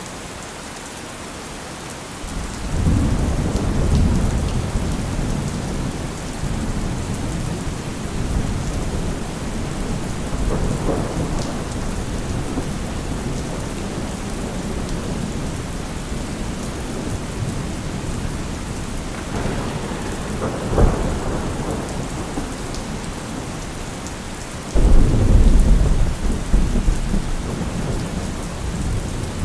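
Steady rain with thunder: a long low rumble of thunder begins about two seconds in and rolls on, swelling again a couple of times, and a sharper, louder clap breaks in near the end.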